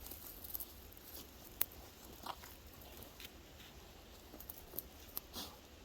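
Faint scattered clicks and taps of trapping gear being handled while a beaver trap is anchored to a stick. The sharpest is a single click about a second and a half in.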